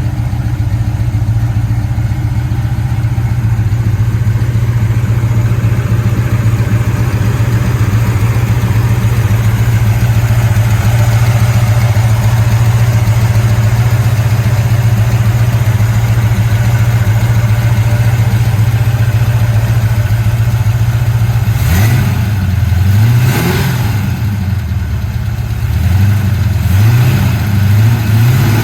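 1957 Chevy truck's V8 engine idling steadily, then revved in a few short blips near the end, its pitch rising and falling with each one.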